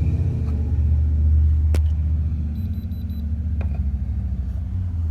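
GMC Yukon's engine idling steadily, with two sharp clicks and a faint quick run of four high beeps near the middle.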